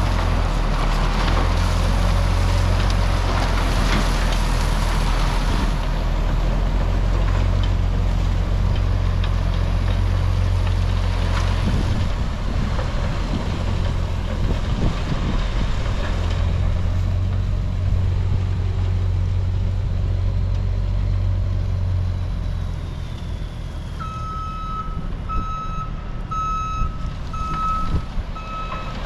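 Heavy vehicle engine running steadily, its low rumble easing off after about twenty seconds. Near the end a backup alarm starts beeping at a steady pace.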